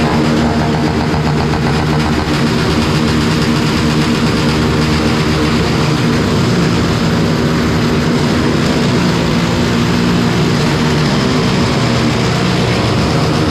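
Motorcycle engine, a Yamaha Lander 250 single, running at a fairly steady speed while riding, with wind rushing over the microphone. The engine note wavers slightly around the middle.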